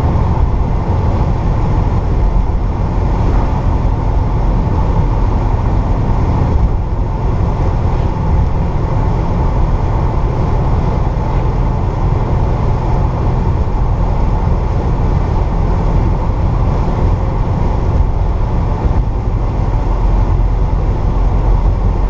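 1964 Pontiac GTO's 389 V8 with Tri-Power carburetion running at a steady cruise, a low even drone mixed with road noise.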